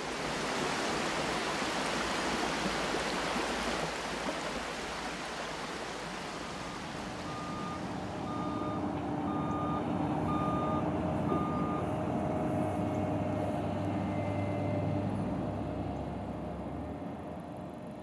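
Vehicle traffic noise, then a reversing alarm sounding six short beeps about a second apart, over a heavy vehicle engine's hum that fades near the end.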